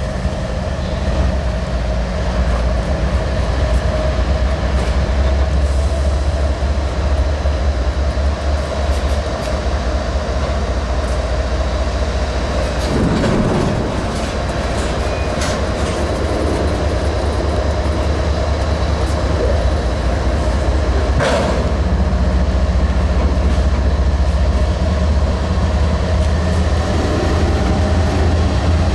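A freight train rolling past with a steady, loud low rumble. Its wheels click over the rail joints throughout, with a couple of louder knocks about halfway through.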